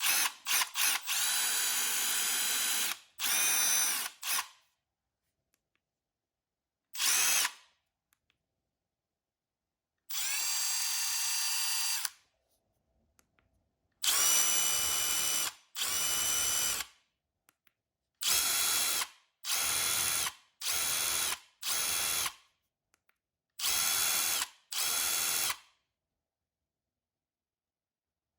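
Milwaukee M12 FID2 FUEL 1/4-inch hex impact driver triggered in a series of short bursts, about a dozen, some quick and some held for up to two seconds. Each burst is a high-pitched motor whine that falls away as the trigger is released.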